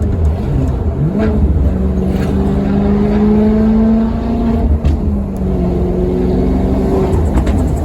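Maserati Quattroporte Sport GT's V8 engine under way. Its note rises about a second in and holds for a few seconds, then drops about five seconds in and steadies at a lower pitch.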